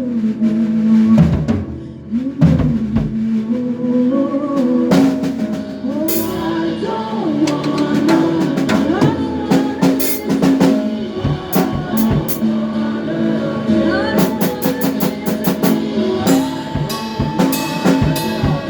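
Live band playing continuously: a drum kit with bass drum and snare hits under sustained, sliding melodic parts.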